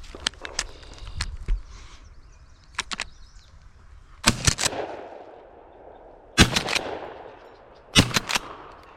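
Three gunshots about two seconds apart, each a sharp crack that rolls into a fading echo. Lighter clicks and knocks come before them.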